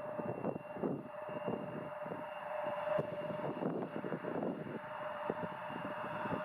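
Embraer regional jet's turbofan engines running with a steady whine, heard through strong gusty wind buffeting the microphone.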